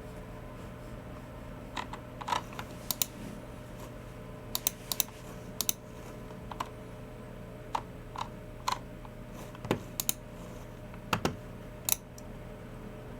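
Slow, irregular keystrokes on a Logitech MX Keys Mini low-profile keyboard: single taps and quick pairs with pauses between, over a faint steady hum.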